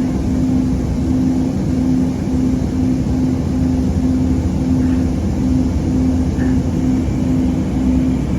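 Muni Metro light rail vehicle running, heard from inside the car: steady low rumble of the train in motion with a low hum that pulses on and off at an even rate.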